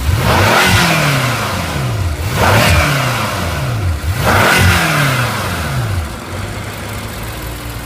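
2014 BMW M5's twin-turbocharged 4.4-litre V8 revved three times while parked, each blip climbing quickly and falling back to idle, then settling into a steady idle about six seconds in.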